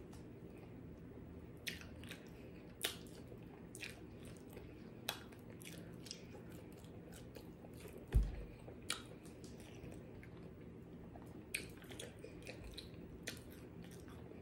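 A person chewing fried food close to the microphone, with scattered sharp mouth clicks and soft crunches. There is a single low thump a little past the middle.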